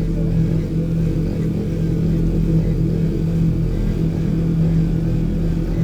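Vehicle engine running at a steady speed, a constant low drone with no clear change in revs.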